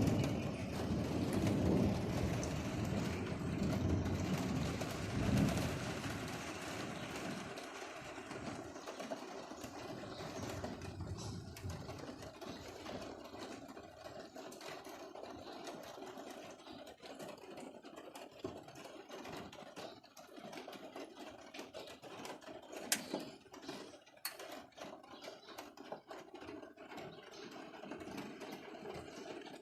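A low roll of thunder dies away over the first several seconds. Rain then patters and drips, with many small rapid taps and a couple of sharper drips about two-thirds of the way through.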